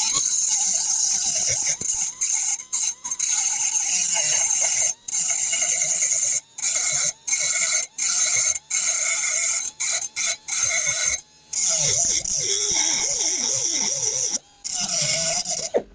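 Compressed-air power tool running in the shop: a loud, high-pitched hiss and whine with a wandering pitch. It cuts out briefly about a dozen times as the trigger is let off and squeezed again.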